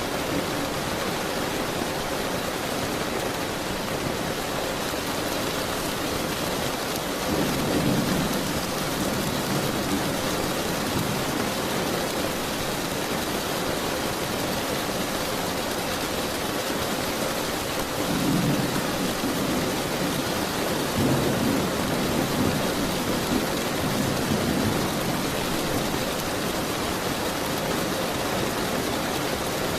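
Steady heavy rain with rolling thunder. Low rumbles swell up about a quarter of the way in and again past the middle.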